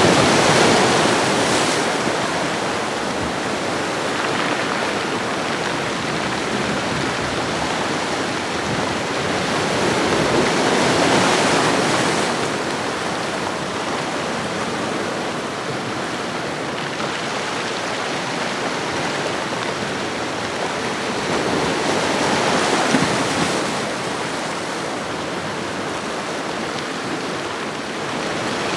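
Ocean waves washing along a shore: a continuous surf noise that swells and ebbs, with three swells about eleven seconds apart.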